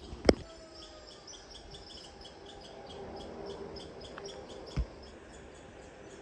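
A bird chirping over and over in the background, short high chirps about three a second. A sharp knock sounds just after the start and a softer thump near the end.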